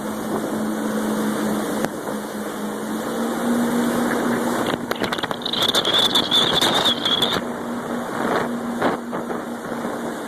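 Jet ski engine running steadily over rushing water and wind. About five seconds in, a burst of splashing comes with a high-pitched squeal lasting about two seconds.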